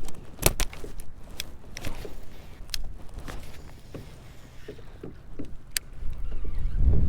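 Scattered sharp clicks and knocks of fishing gear and hull handled aboard a kayak, with wind buffeting the microphone near the end.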